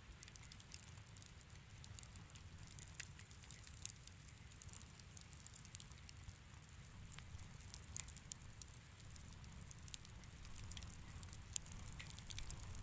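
Wood fire in a fireplace crackling softly: scattered small pops and snaps over a low, steady rumble of the flames, with one sharper pop near the end.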